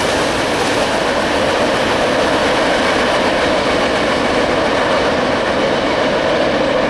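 Freight train cars rolling past, the steady noise of steel wheels on the rails.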